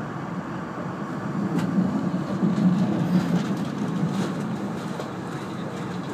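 E2-series Shinkansen train running, heard from inside the passenger cabin as it draws into its terminus: a steady rumble that swells mid-way, with a few sharp clicks of the wheels over rail joints and points.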